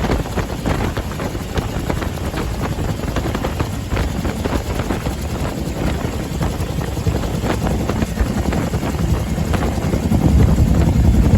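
UH-1H Huey helicopter, its Lycoming T53 turboshaft and rotor running steadily, with wind buffeting the microphone; the low rumble swells louder near the end.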